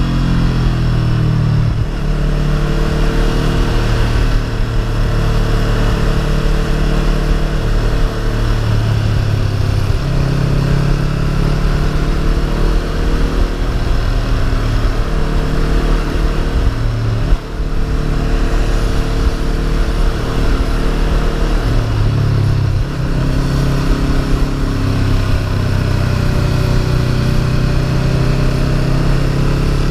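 Honda CB500F parallel-twin motorcycle engine running under way, its note shifting up and down every few seconds as engine speed changes.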